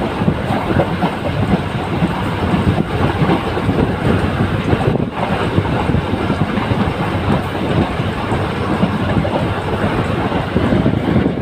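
Passenger express train running along the track, a steady rumble of wheels on rails with wind noise on the microphone.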